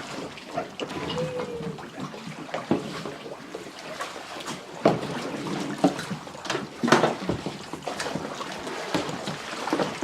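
Water splashing and trickling in shallow water, with irregular sharp knocks and clatter.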